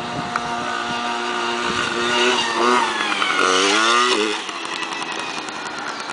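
Motocross bike engine running hard, its pitch climbing and then swinging up and down as the rider works the throttle. It is loudest a little past halfway, then falls back to a fainter, rougher note.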